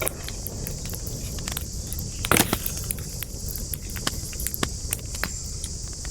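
Wood campfire crackling, with many small sharp pops and one louder pop about two and a half seconds in, over a steady low rumble of the flames.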